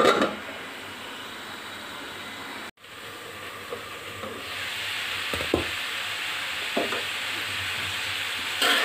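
Mixed vegetables and egg frying in a pan, a steady sizzle that drops in level just after the start as the pan is covered, then grows louder again about halfway through. A couple of soft knocks from the pan or utensils in the second half.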